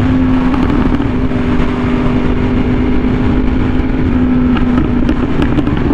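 Yamaha R1M's crossplane inline-four with an SC Project exhaust running at a steady high speed, its pitch holding nearly constant, over a heavy rush of wind noise.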